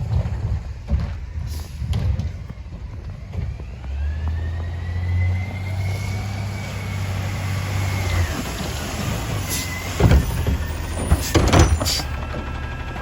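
Garbage truck's engine revs up with a high hydraulic whine for about four seconds as the automated cart arm works. This is followed by several loud metallic clanks and bangs about ten seconds in, typical of a cart being dumped and shaken into the hopper.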